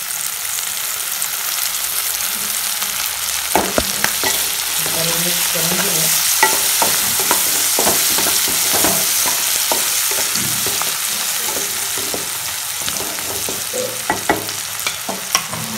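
Chopped onion and tomato sizzling in hot oil in a kadhai (wok), with a spatula stirring them and clicking and scraping against the pan from a few seconds in.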